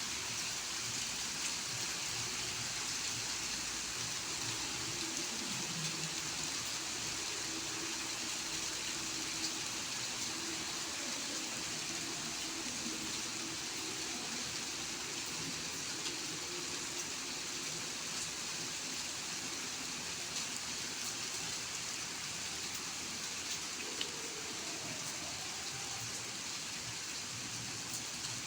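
Steady rain falling: an even hiss with an occasional louder drop tick.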